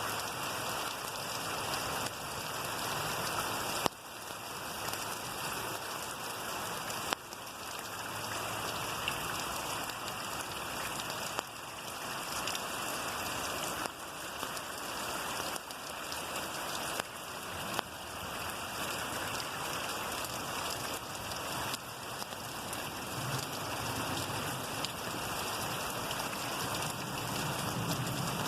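Steady rainfall, an even hiss of rain on surfaces, with an occasional sharp tap standing out a few times.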